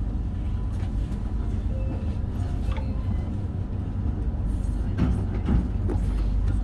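Electric train standing at a platform with its doors open, giving a steady low hum, with faint scattered platform sounds above it.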